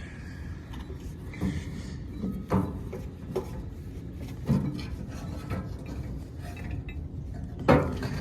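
Scattered clinks and knocks from metal parts and hand tools being handled inside a rooftop HVAC unit, about half a dozen over a steady low rumble, the loudest near the end.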